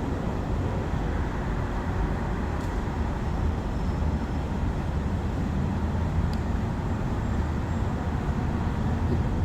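Steady low rumble with a hiss over it, like running vehicle or road noise, with no clear change throughout.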